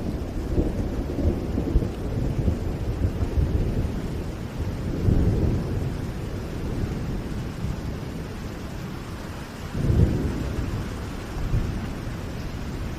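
Steady rain with low rolls of thunder, swelling about five seconds in and most strongly about ten seconds in.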